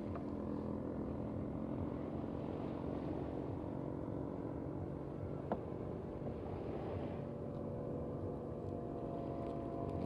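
An engine running steadily with an even, droning hum over a wash of background noise, with a single sharp click about five and a half seconds in.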